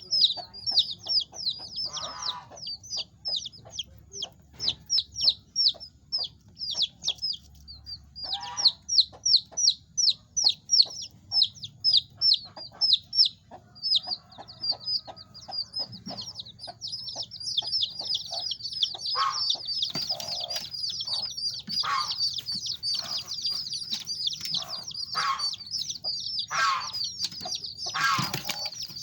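Kampung chicks peeping: rapid high cheeps, each falling in pitch, several a second, coming in runs with short pauses at first and then from many chicks at once without a break. Lower chicken clucks come in now and then, more often in the second half.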